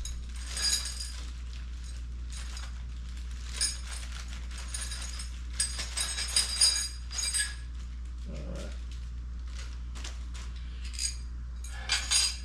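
Steel bolts and brackets from a transmission jack kit clinking and rattling as they are handled, in short scattered bursts with a metallic ring, busiest in the middle and again just before the end, over a steady low hum.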